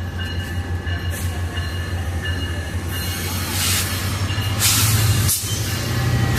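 A train locomotive rumbling at low pitch, with faint steady high squealing tones and two strong hisses, the first a little past halfway and the second just before a brief drop in sound. The rumble then swells near the end.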